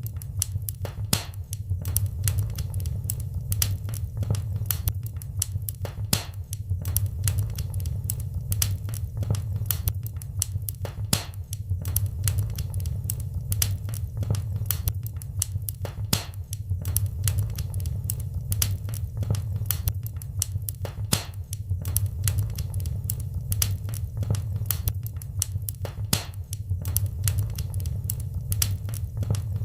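Wood fire in a fireplace crackling and popping: many sharp irregular pops, several a second, over a steady low rumble of the burning fire.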